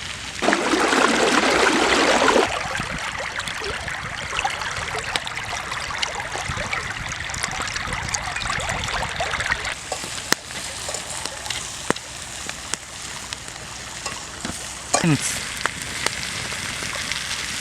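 Food frying in a hot pan. About half a second in the sizzling surges loudly for two seconds as more goes into the pan, then settles into a steadier, quieter sizzle with scattered knocks.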